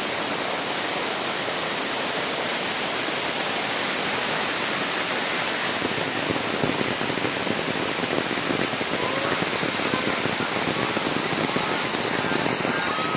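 Rain pouring down steadily, a dense even hiss of water.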